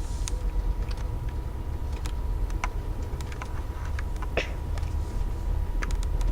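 Passenger train running, heard from inside the car: a steady low rumble with irregular light clicks and rattles and a faint steady high tone.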